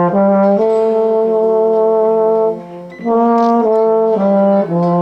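A brass instrument played solo, a few short notes and then one long held note, a brief break about two and a half seconds in, then more notes.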